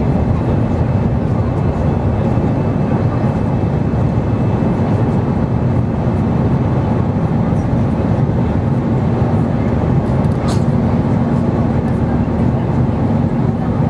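Airbus A320 engine and airflow noise inside the passenger cabin: a steady, loud, low roar with a faint steady hum. A brief faint click comes near the end.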